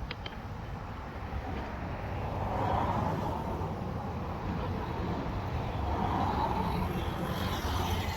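Vehicle noise: a steady low rumble that swells twice, about three and six seconds in.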